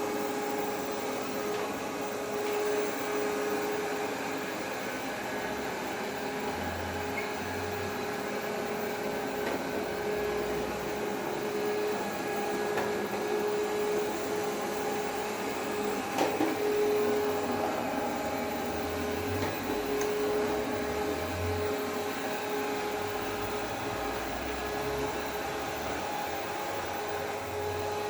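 ABIR X8 robot vacuum running steadily, its suction motor giving a steady hum with a constant mid-pitched tone. There is a brief knock about halfway through.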